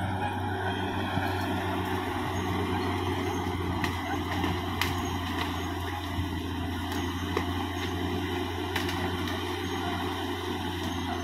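Caterpillar D6R XL bulldozer's diesel engine running steadily at a constant low drone, with a few sharp clicks or clanks scattered through.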